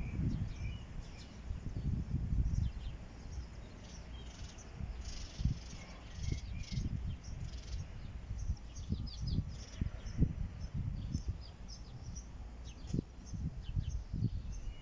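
Small birds chirping in quick, high notes over a low, gusty rumble of wind on the microphone.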